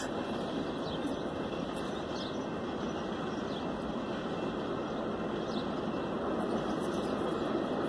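Union Pacific train passing, a steady rolling rumble without breaks that grows slightly louder near the end.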